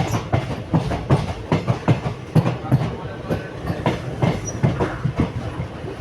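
Train running along the track: a steady low rumble with a quick, continuous run of clacks from the wheels passing over rail joints.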